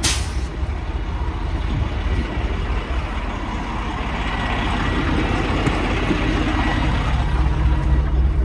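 Semi-truck diesel engine running, with a short burst of noise right at the start. The engine sound builds gradually toward the end as the tractor is moved against the trailer to slide its tandem axles.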